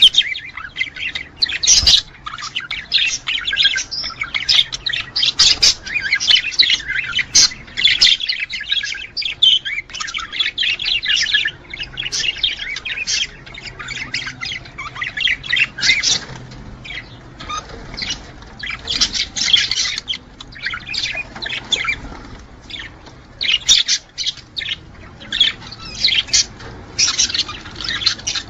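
Budgerigars chattering and warbling, with fast chirps and squawks packed close together throughout: the courtship chatter of budgies in breeding mood.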